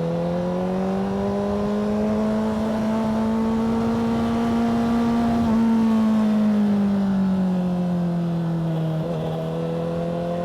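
Motorcycle engine under way, its pitch climbing smoothly for about five seconds as it speeds up, then falling away as it eases off, with wind rush underneath.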